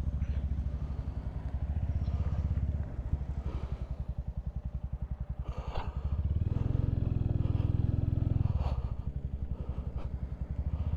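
Motorcycle engine running under way, easing off for a few seconds, then pulling harder and rising in pitch from about six seconds in before easing again near nine seconds.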